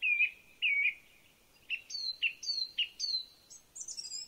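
A songbird singing a phrase of clear whistled notes: two slurred notes at the start, then a run of quicker notes that drop in pitch, ending in a higher twittering flourish near the end.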